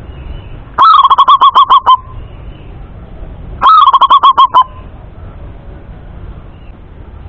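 Male zebra dove (perkutut) singing: two loud, clear phrases of rapid staccato cooing notes, each about a second long and about three seconds apart.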